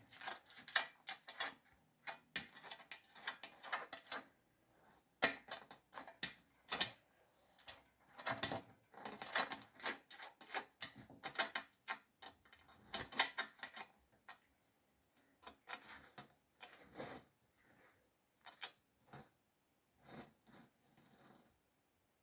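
Irregular clusters of sharp clicks and ticks, dense at first and sparser in the last third.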